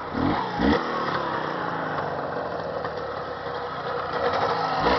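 Jawa 638 motorcycle's two-stroke twin engine running, blipped twice briefly about half a second in, then running steadily and getting a little louder near the end, during its break-in.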